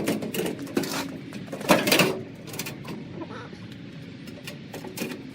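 Knocks and scraping of dryer parts being handled and fitted during reassembly, with a sharp knock at the start and the loudest clatter about two seconds in, then quieter handling noise.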